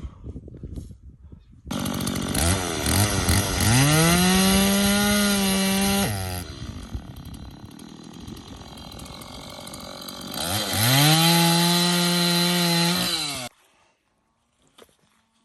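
Two-stroke chainsaw revved to full throttle twice, dropping back to idle in between; it starts and cuts off suddenly.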